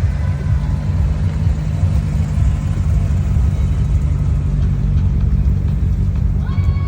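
Steady low rumble of a car running. A few steady musical tones come in near the end.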